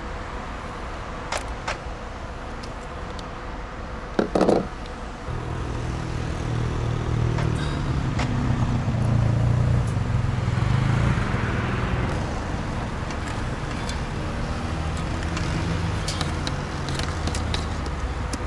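A motor vehicle's engine running close by comes in about five seconds in, just after a short loud sound, and is loudest around the middle. A few light clicks of small tools being handled are heard early and near the end.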